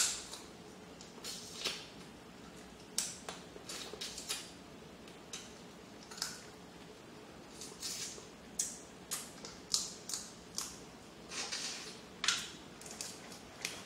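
Close-up eating sounds: irregular wet smacks and clicks of chewing and sucking on food, about one to three a second, some sharper than others.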